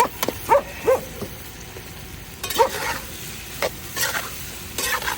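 Pork belly and tomatoes being stir-fried in a pot: steady sizzling, with a spatula knocking and scraping against the metal several times and giving short squeaks.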